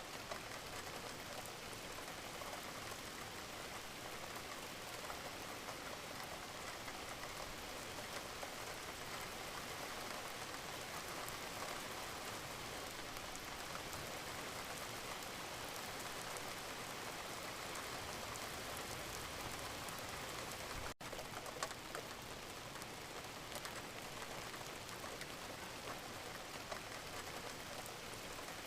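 Wood fire crackling in a fireplace: a steady hiss full of small crackles, with an occasional sharper pop. The sound drops out for a split second about 21 seconds in.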